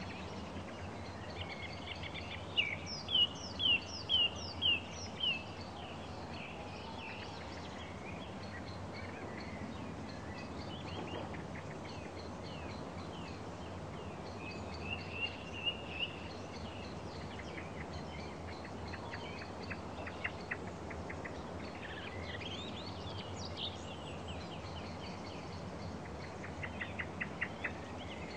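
Small songbirds singing over a steady background hiss: a run of six loud, quick notes about three seconds in, a few chirps midway, and a rapid series of short notes near the end.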